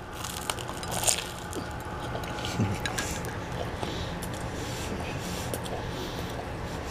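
A person chewing a mouthful of a soft hoagie-roll sandwich, with wet, squishy mouth sounds and small irregular clicks, over a steady low hum.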